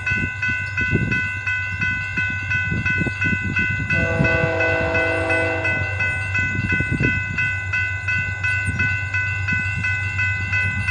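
Railroad crossing warning bell ringing in a rapid, even rhythm as the signals activate for an approaching train. A distant train horn sounds from about four to six seconds in, over a steady low rumble.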